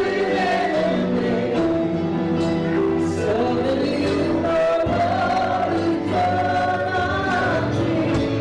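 Gospel music with a choir singing sustained chords.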